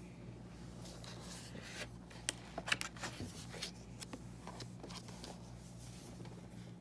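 Paper rustling and light clicks of a book being handled: pages and card flaps shifting, with a few sharp ticks a couple of seconds in, over a faint steady hum.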